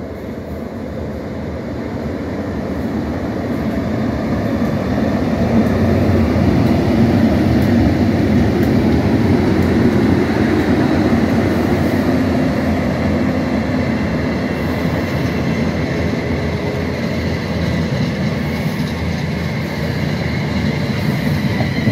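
A freight train hauled by a pair of Class 90 electric locomotives runs through the station with empty flat wagons, a loud rumble of wheels on rail that builds over the first few seconds and then holds steady as the wagons pass.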